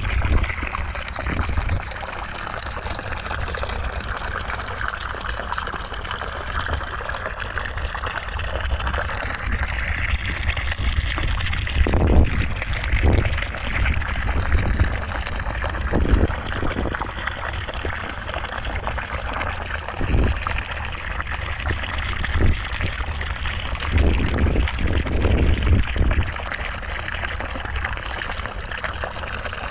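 Steady rushing of running water, used as white noise, with a few brief low thuds here and there.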